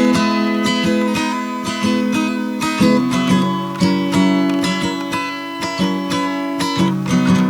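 Acoustic guitar strummed in a steady rhythm, playing chords in an instrumental break of a song with no singing.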